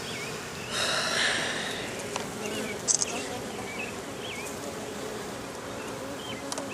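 Honeybees buzzing steadily around an open hive, a continuous hum. A brief rush of noise comes about a second in.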